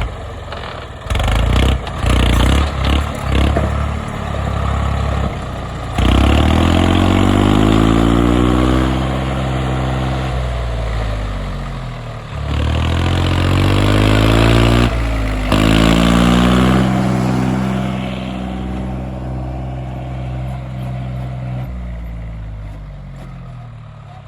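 Swaraj 855 tractor's diesel engine revved in a few short blips, then run hard at high revs in two long spells, its pitch sagging slowly during each before it eases off.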